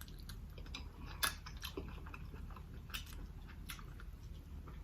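Close-miked chewing: scattered wet mouth clicks and smacks at irregular intervals, the loudest about a second in.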